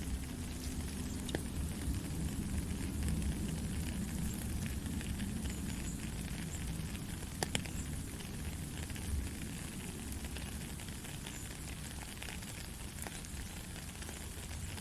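Steady gentle rain with a low rumble underneath and scattered drops ticking, one sharper tick about halfway through.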